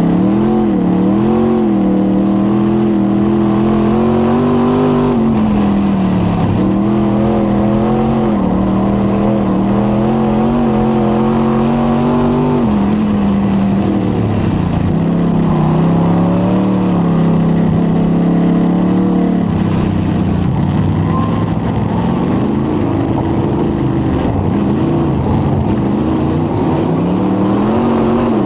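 Late model race car's V8 engine running hard under racing load. Its pitch climbs and holds down each straight, then dips briefly as the throttle comes off for each turn, about every six to seven seconds.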